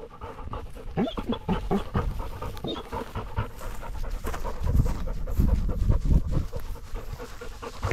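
A Labrador retriever panting in quick, repeated breaths, picked up close by the camera strapped to its own harness.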